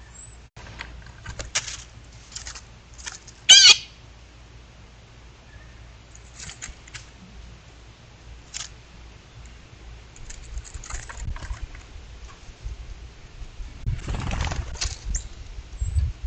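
Birds: scattered rustles and wing flaps, with one short, loud call about three and a half seconds in and a longer flurry of flapping and rustling near the end.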